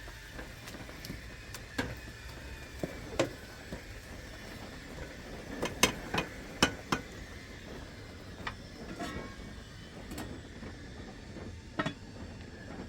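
Scattered sharp knocks and clinks of hard objects being handled, irregularly spaced, with a quick run of the loudest ones about six to seven seconds in.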